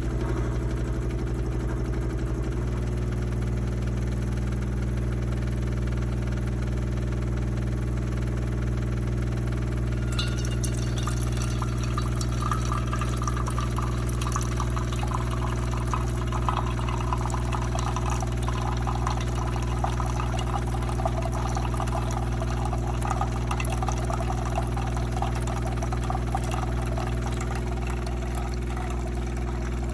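De'Longhi TrueBrew coffee maker running a cycle: a steady motor and pump hum, joined about ten seconds in by a dense crackling, sputtering sound that continues.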